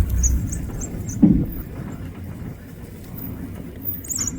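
Safari vehicle's engine running low and then falling silent about half a second in, followed by a short, louder low sound about a second later and a few faint high chirps.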